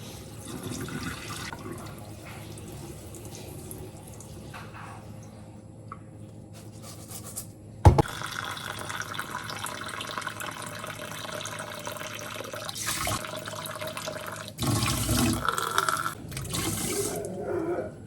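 Water running from a tap into a sink, with a sharp knock about halfway through, after which the flow is louder and uneven.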